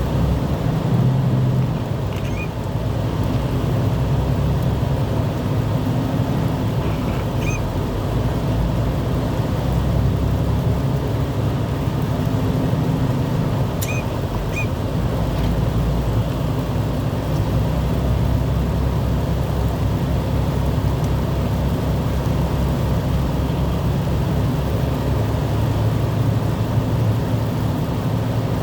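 Steady low rumble of a vehicle running, with a faint hum, and a few faint high squeaks here and there.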